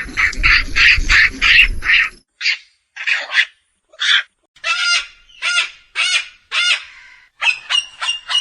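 A bird calling harshly over and over. The calls come in a quick run over a low rumble for the first two seconds, then settle into separate calls about twice a second.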